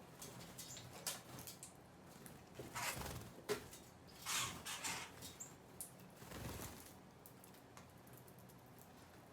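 Faint scattered taps and three short rustling swells from small birds feeding and fluttering.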